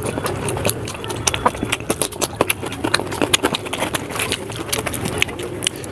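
Close-up mouth sounds of a person eating oily mutton curry with puri: wet chewing and lip smacking, a dense irregular run of sharp clicks and smacks.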